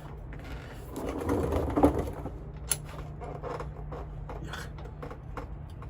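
Irregular metal clicks and knocks of hand work on a driveshaft as a part is forced into place, over a steady low hum.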